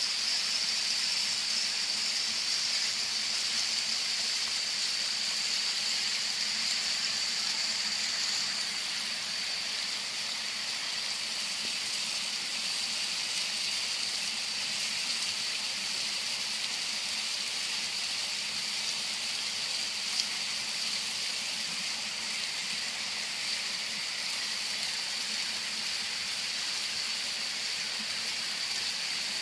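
Waterfall: a steady hissing rush of falling water, with no rhythm or break.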